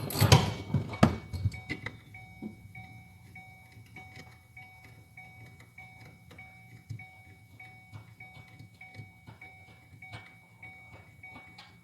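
A car's electronic warning chime repeating steadily and faintly, about two and a half short blips a second. A few louder clunks and clicks of tool work on a tight seat screw come in the first second or two.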